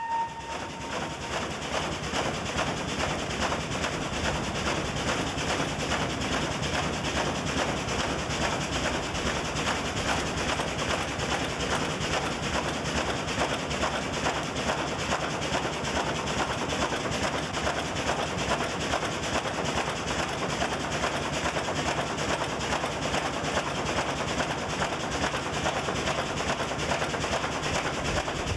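1902 American LaFrance steam fire engine running under steam, its steam pump with two double-acting pistons working steadily at a fast, even beat. A steam whistle dies away about a second in.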